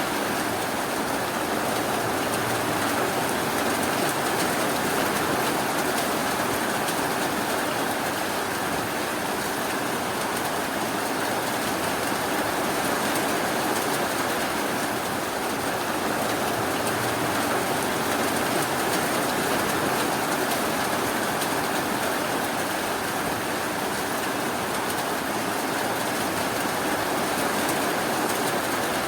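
Steady rain falling, an even unbroken hiss with no thunder or gusts.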